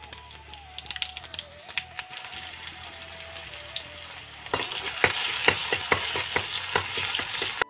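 Chopped tomato, onion and spices sizzling in hot oil in a small iron wok over a wood fire, with scattered crackling pops. About four and a half seconds in, the sizzle gets much louder and crackles densely as a ladle stirs the pan.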